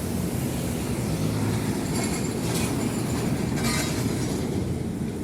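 Heavy container truck passing close by: a steady deep rumble of engine and tyres, with a few short hissing, rattling flares around two and three and a half seconds in.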